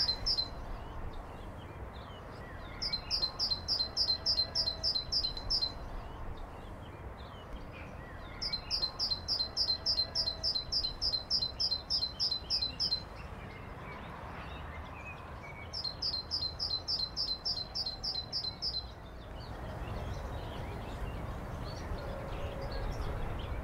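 A bird calling in three bouts of rapid, evenly repeated high chirps, each bout lasting three to four seconds, over a faint low outdoor rumble.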